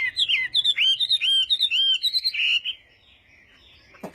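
Chinese hwamei singing a fast run of loud, clear whistled notes that slur down and up, breaking off a little under three seconds in.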